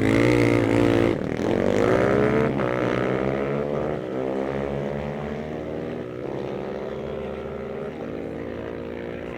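Sport motorcycles launching off a drag-race start and accelerating hard, their engines climbing in pitch and dropping back at each upshift. The engines are loudest just after the launch and fade as the bikes pull away down the strip.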